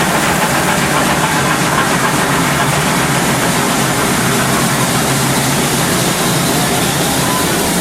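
Steady running noise of a steam-hauled passenger train at speed, heard from the first carriage behind locomotive 3016: wheels on rail and rushing air, with no clear beat.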